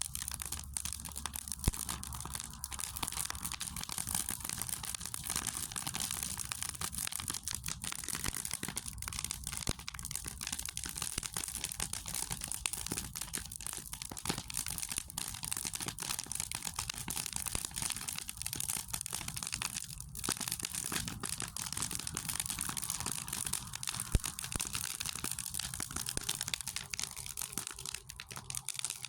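Wood fire in a fire pit crackling steadily, a dense run of small snaps and hiss, with two sharper, louder pops about 2 seconds in and again near 24 seconds.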